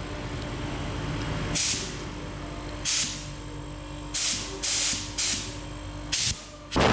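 Compressed air hissing out of a homemade air compressor's hose in seven short bursts over a steady background hum, the air supply working.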